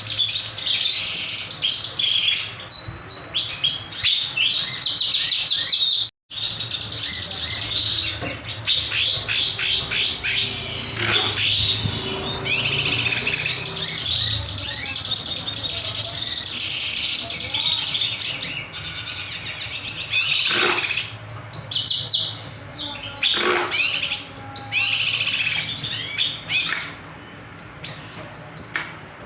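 A kinoy songbird singing nonstop: rapid high chirps, trills and sharp piercing notes in quick run-on phrases. The sound cuts out completely for an instant about six seconds in.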